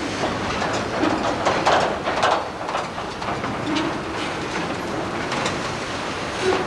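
Freight train's boxcars rolling slowly past at close range: steel wheels running on the rails with a steady rumble and irregular clicks and clanks.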